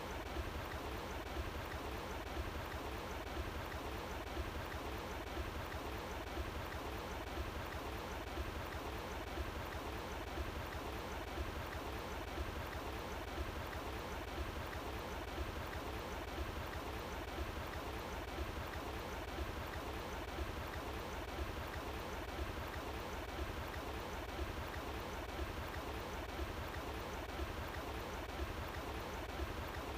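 Running water flowing steadily, an even, continuous rush with no change in level.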